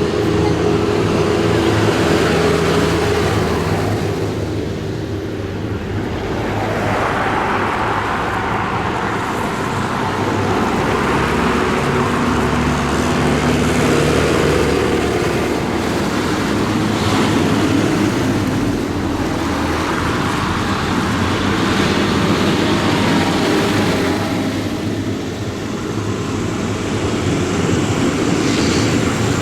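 A procession of tractors driving past one after another, engines running at a steady pace. Several engine notes overlap and change as each tractor comes and goes, with a rushing road noise that swells and fades several times as they pass.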